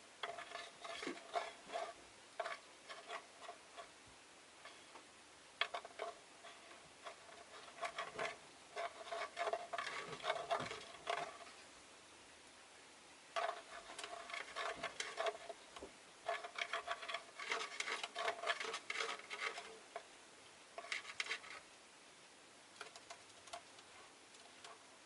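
Rosy-faced lovebirds chattering softly in irregular bursts of quick, clicky twitters, with short pauses in between.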